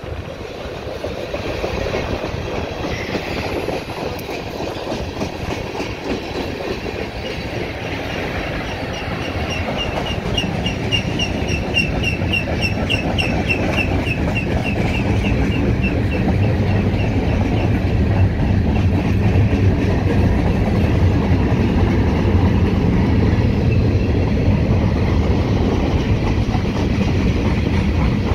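CN freight train's gondola and hopper cars rolling past on the track: a steady rumble of wheels, with clicking over the rail joints, growing louder. From about nine seconds in, for several seconds, a run of short high squeaks repeats several times a second.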